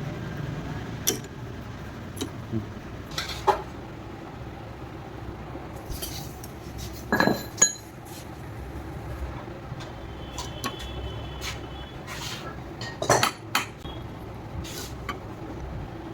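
Metal hand tools clinking and knocking against scooter engine parts at irregular intervals. The loudest knocks come in quick pairs about seven seconds in and again about thirteen seconds in, with a brief metallic ring between them.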